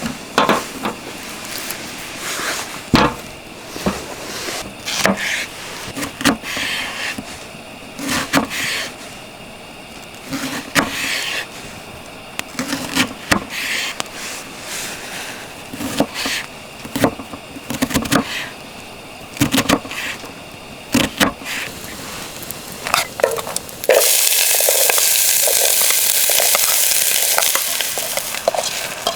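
Irregular knocks and scrapes of a utensil working in a frying pan. About 24 s in, a loud sizzle starts suddenly as food goes into hot oil in the pan, then eases a little near the end.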